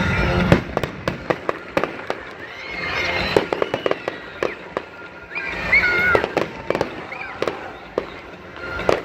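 Fireworks going off in a rapid, uneven series of sharp pops and bangs, swelling louder about three seconds in and again about six seconds in.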